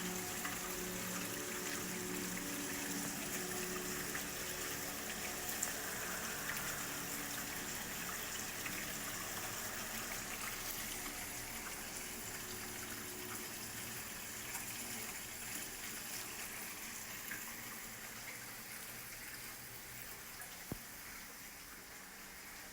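Steady rain ambience, an even hiss of falling rain that slowly grows softer. Soft held music tones fade out over the first several seconds, and a single sharp click sounds near the end.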